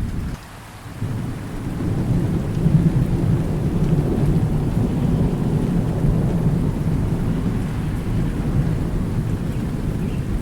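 Thunderstorm: steady rain with a deep rolling thunder rumble. The sound dips briefly just under a second in, then the rumble swells and carries on.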